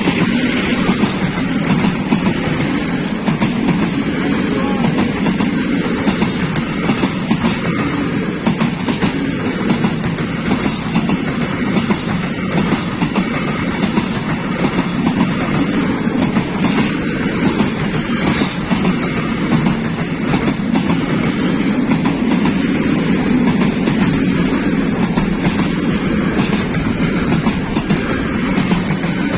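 Freight train wagons rolling steadily past, with a continuous noise of steel wheels on the rails and clickety-clack over the rail joints.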